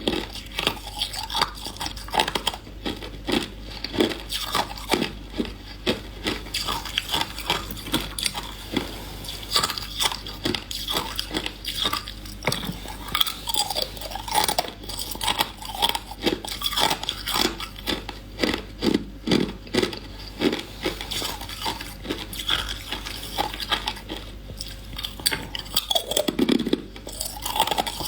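Hard ice being bitten and chewed: a continuous run of sharp, crisp crunches and cracks, several a second.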